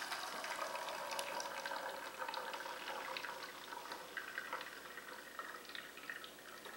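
Coffee running and dripping from a Presto MyJo hand-pressed single-cup coffee maker as hot water is pushed through a K-cup. The flow slowly tails off into scattered drips.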